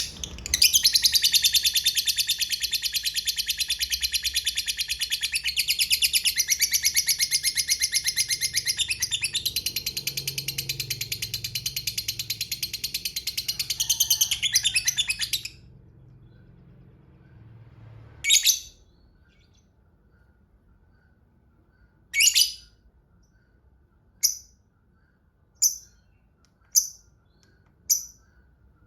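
A lovebird giving a long, rapid chattering trill, the 'ngekek panjang' song prized by Indonesian lovebird keepers, for about fifteen seconds. After a short pause it gives single sharp chirps every second or two.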